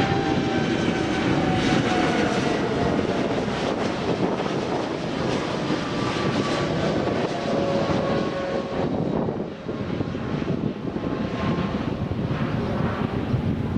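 Airliner's engines running loud as the plane passes near the runway: a heavy rush with whining tones that slowly drop in pitch, easing off somewhat about nine to ten seconds in.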